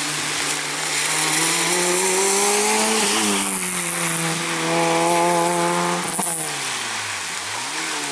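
Rally car engine running hard: its pitch climbs through the gears with a shift about three seconds in, then drops sharply about six seconds in as the car slows, and rises again near the end.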